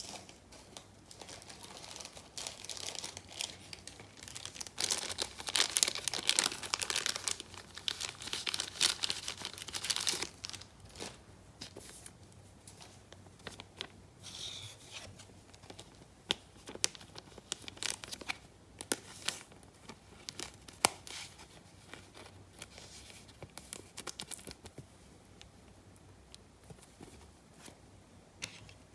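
Trading-card pack wrappers being torn open and crinkled, loudest in the first ten seconds, followed by scattered light crinkles and clicks as the packaging and cards are handled.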